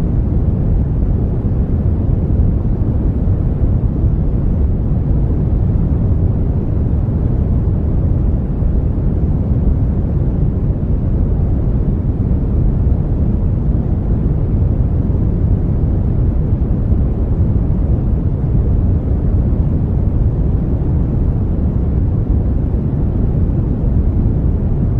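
Brown noise: a steady, even, deep rumbling hiss with most of its energy in the low frequencies, unchanging throughout.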